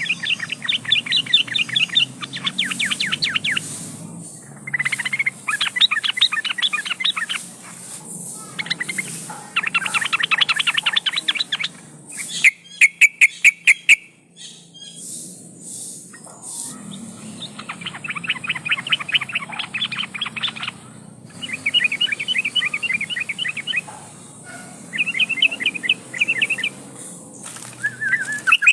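Yellow-vented bulbul (trucukan) singing rapid chattering trills in phrases of one to three seconds, over and over with short pauses. A run of sharp, evenly spaced clicking notes comes about halfway through. The uploader presents the song as a female calling to males.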